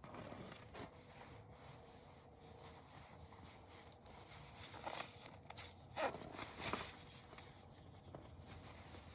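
Faint rustling of clothing and gear, with a zipper pulled in a few quick strokes about five to seven seconds in.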